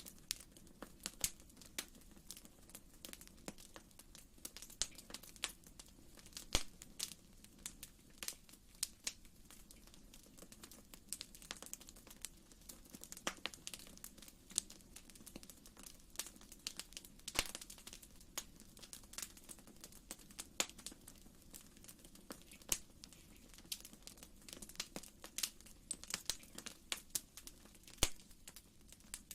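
Wood fire in a fireplace crackling, with irregular sharp pops and snaps over a faint steady low rumble of the flames.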